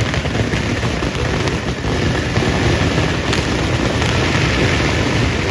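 Dense, continuous crackling of firecrackers going off, with a few sharper cracks standing out.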